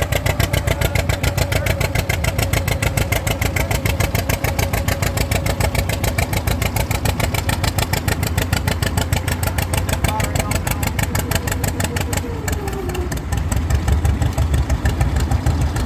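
Vintage tractor engine running with a rapid, even exhaust beat. About twelve seconds in, a whine drops in pitch and the engine note changes, dipping briefly and then coming back louder.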